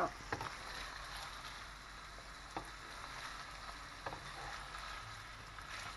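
Crumbled sausage meat frying in a non-stick pan: a soft, steady sizzle, with a few light knocks of a wooden spatula against the pan as the meat is stirred.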